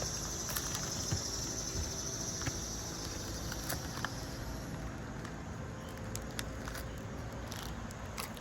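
Insects buzzing steadily at a high pitch, fading out about halfway through, with scattered faint clicks and a low background rumble.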